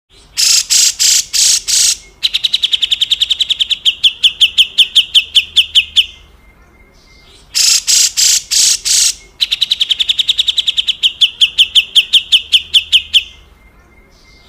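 Cucak jenggot (grey-cheeked bulbul) giving its harsh rasping call (besetan kasar): a handful of loud rasping notes followed by a fast rattling series of notes lasting about four seconds. The phrase is given twice.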